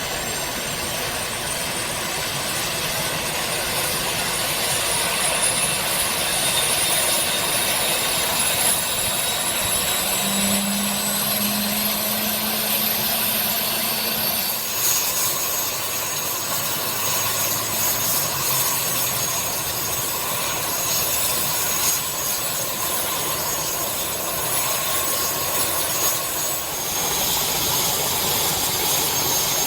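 Eurocopter BK117-C1 helicopter's twin turbine engines running on the ground with a loud turbine whine. For about the first fifteen seconds the whine climbs steadily in pitch as the engines spool up, then it settles into a steady high whine.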